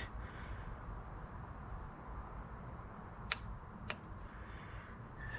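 Two sharp clicks about half a second apart, a little past halfway through: a belt tension gauge pressed against the serpentine belt, clicking as it takes a tension reading.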